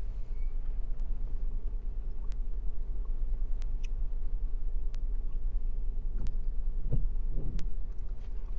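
Steady low rumble of an idling car, heard from inside the cabin, with a few light sharp ticks scattered through it.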